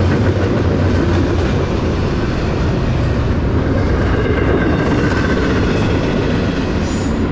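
Double-stack intermodal freight train's container well cars rolling past close by: a loud, steady noise of steel wheels running on the rails.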